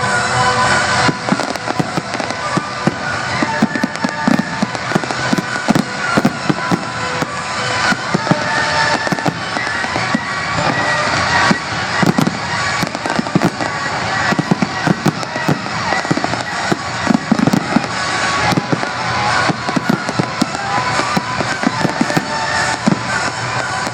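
A fireworks display's finale: a dense, continuous barrage of bangs and crackling shells, with show music playing loudly over the park's sound system.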